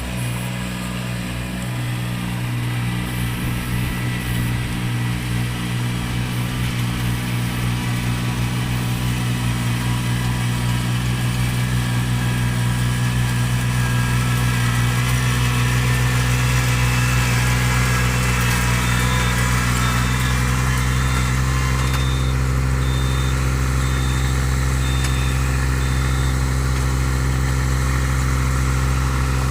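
Tractor engine running steadily at an even speed, its sound slowly growing louder over the first half.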